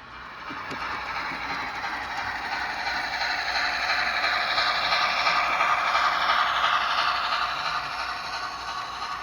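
Model train running along the layout track, its wheels and drive clattering. The sound grows louder to a peak about six seconds in, then fades as it passes.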